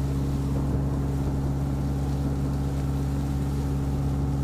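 Narrowboat's engine running steadily under way, an even low hum that does not change.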